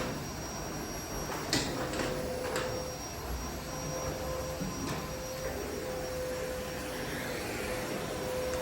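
Vacuum cleaner motor running steadily with a constant hum and a faint high whine, and a few short knocks in the first five seconds as the nozzle bumps along.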